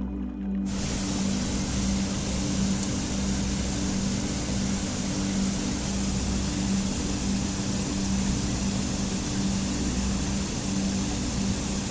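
Steady rushing water, an even hiss like a stream or waterfall, cutting in under a second in and holding level, over a low steady drone.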